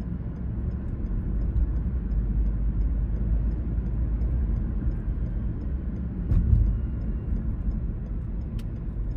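A car driving, giving a steady low rumble of engine and road. A faint regular ticking runs through it, and a louder low bump comes about six and a half seconds in.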